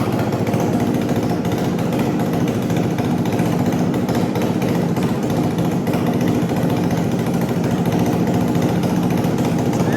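2009 Honda CRF250 dirt bike's single-cylinder four-stroke engine running steadily, freshly rebuilt with a new Pro X piston and adjusted valves.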